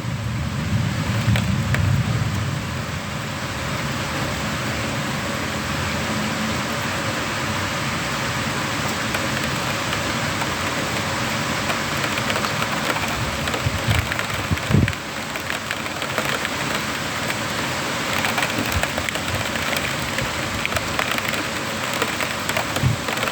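Heavy rain falling steadily in a thunderstorm, with a low roll of thunder dying away over the first few seconds. There is a brief low thump about two-thirds of the way through.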